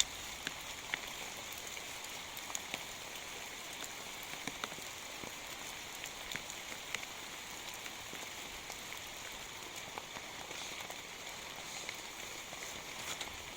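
Steady rain falling, a continuous hiss with many scattered sharp drop hits.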